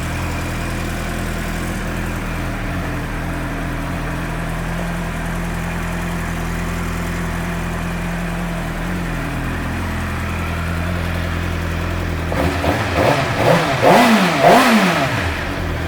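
Suzuki GSX-R600 inline-four engine idling steadily, then revved in a few quick throttle blips about twelve seconds in, the pitch rising and falling each time, before it drops back toward idle.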